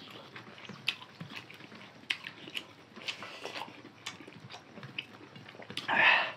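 Close-up eating sounds: chewing and wet mouth smacks, scattered irregular clicks, with one louder brief mouth sound about six seconds in.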